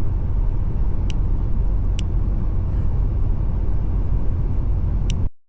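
Steady road and engine rumble of a car driving at highway speed, heard from inside the cabin, with a few faint clicks; it cuts off suddenly near the end.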